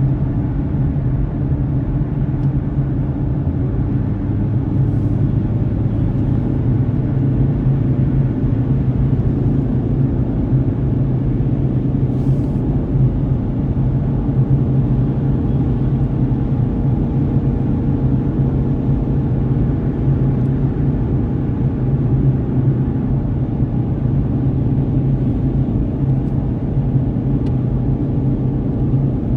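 Steady in-car driving noise of a car on the road, recorded by a dashcam: a low drone of engine and tyres with a faint steady tone above it.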